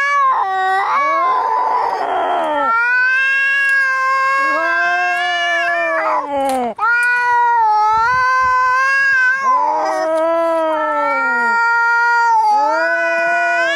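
Angry cats yowling at each other in a fight: long, drawn-out wails that rise and fall in pitch, one after another and sometimes overlapping, broken by a harsh hiss about a second in.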